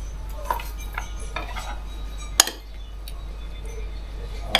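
Light clinks and scrapes of cutlery and dishes, with one sharp clink about two and a half seconds in.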